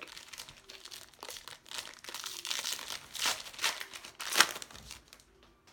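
Crinkling and rustling of a foil baseball card pack wrapper while the cards inside are handled and flipped, in irregular bursts with the loudest crackle about four and a half seconds in.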